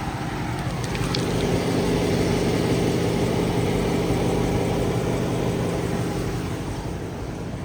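2020 Dodge Charger R/T's 5.7-litre Hemi V8 idling steadily, growing louder about a second in and easing off near the end.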